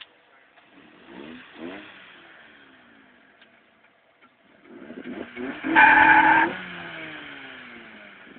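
A single-cam VTEC D15B Honda Civic and a Ford Mustang 5.0 V8 revving while staged side by side. There is a short rev about a second in, then a longer rev from about five seconds in that peaks with a loud high squeal lasting under a second, after which the revs fall away.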